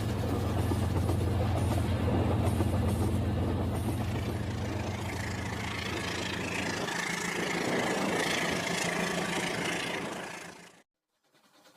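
Toy train running, a steady mechanical hum that changes character partway through and cuts off suddenly about a second before the end.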